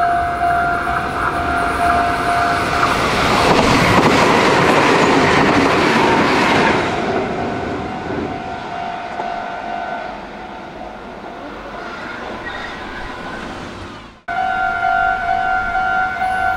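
Japanese level-crossing warning bell sounding a repeating pulsing electronic tone. Then a Meitetsu electric commuter train passes close by, loudest about four to six seconds in, and fades away. After an abrupt cut near the end, the crossing bell starts up again.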